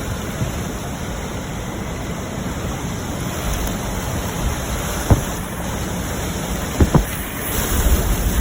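Hurricane-force wind blowing hard and buffeting the microphone in a steady rush. A few sharp thumps come through it about five seconds in and twice near seven seconds.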